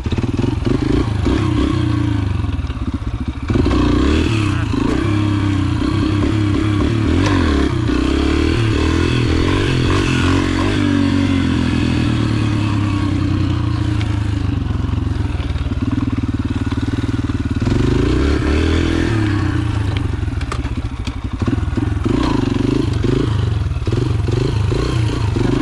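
Yamaha TT-R125 pit bike's single-cylinder four-stroke engine under way off-road, its pitch rising and falling repeatedly as the throttle opens and closes, with a brief drop about three seconds in and again near the end. Occasional knocks and clatter from the bike.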